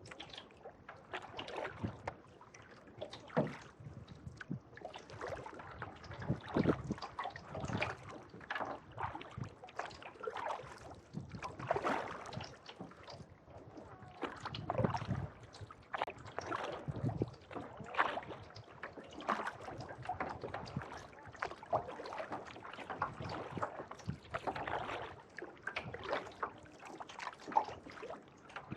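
Kayak paddle strokes on a lake: the blades dip and pull through the water with splashes and drips, a stroke about every second.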